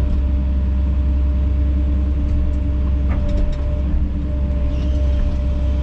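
Kobelco SK210 hydraulic excavator's diesel engine running steadily, a constant drone with a few faint clicks.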